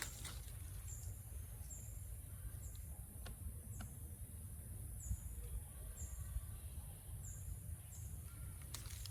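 Forest ambience: a steady high drone of insects, with a short high chirp repeated about once a second over a low rumble and a few faint clicks.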